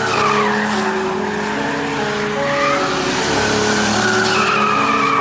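Car tyres squealing in a long, wavering squeal, its pitch sliding up and down.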